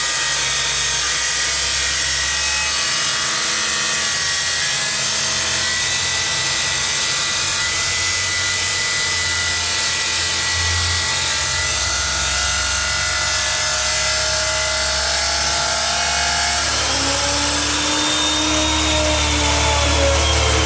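Workshop machinery or a power tool running steadily, with a whining tone that rises and then falls in pitch in the last few seconds.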